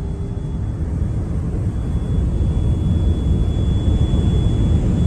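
Low, steady vehicle rumble that slowly grows louder, with a faint, steady high whine joining about two seconds in.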